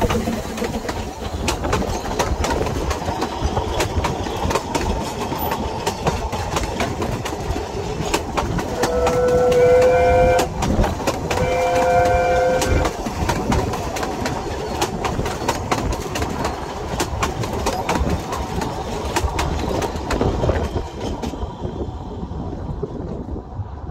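Narrow-gauge steam train's coaches rolling past, wheels clicking steadily over the rail joints. About halfway through, two drawn-out whistle blasts sound, each about a second and a half long. The rumble thins out near the end as the train moves away.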